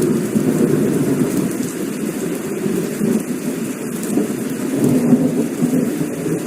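Heavy rain falling steadily under a continuous low rumble of rolling thunder, swelling and easing without a sharp crack.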